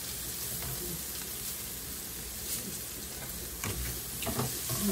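Chicken gizzards and green chillies sizzling steadily in a wok over a gas flame, with a spatula scraping and knocking against the pan a few times near the end.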